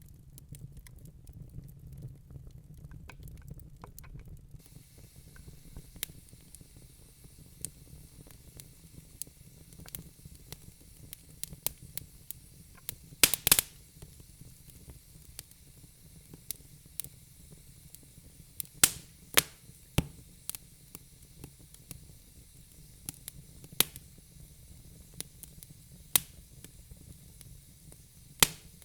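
Wood fire burning in a fireplace: a low rumble with irregular crackles and sharp pops from the burning logs, a few much louder pops standing out, over a faint hiss.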